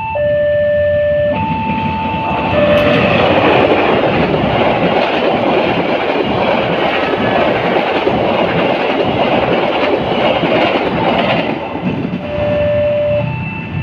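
Level crossing warning alarm alternating between two tones, then a train passing through the crossing, its loud rumble and wheel noise covering the alarm for about nine seconds before the two tones come through again near the end.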